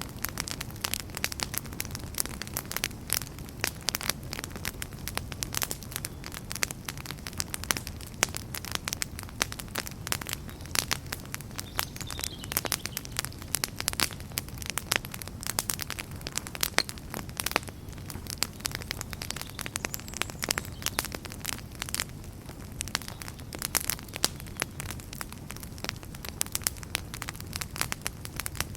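Wood fire crackling in a fireplace: a dense, irregular run of sharp pops and snaps over a steady low rumble of the burning.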